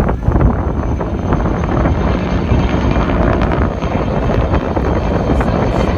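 Firefighting helicopter flying, its rotor and engine noise mixed with heavy wind noise on the microphone.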